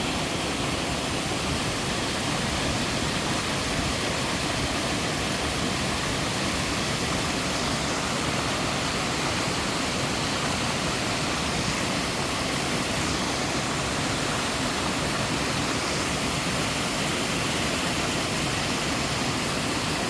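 Steady rush of a mountain waterfall cascading over rock tiers, an even unbroken roar of falling water.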